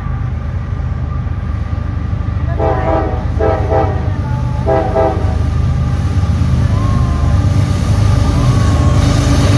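Diesel freight locomotive running close by with a heavy low rumble, sounding its multi-chime air horn in three short blasts, the first two close together. A fainter horn note follows twice later on.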